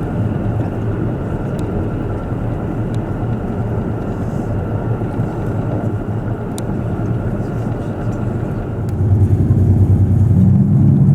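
KiHa 85 diesel railcar running, heard from on board: a steady rumble of wheels on rail with a few sharp clicks, then about nine seconds in the diesel engine powers up and its hum grows louder and rises slightly in pitch.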